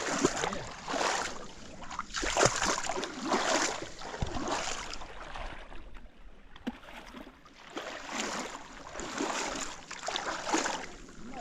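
Canoe being worked through shallow swamp water: repeated splashing and sloshing strokes about once a second, with a few knocks against the hull.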